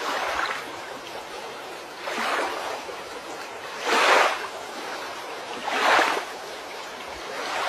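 River water washing in repeated swells, a whoosh about every two seconds over a steady rushing hiss.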